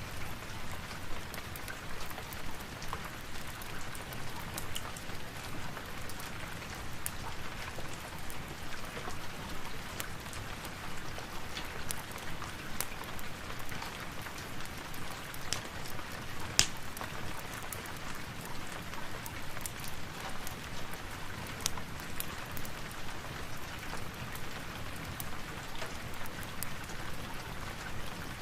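Steady rain falling, with scattered sharp clicks and pops over it, one noticeably louder a little past halfway.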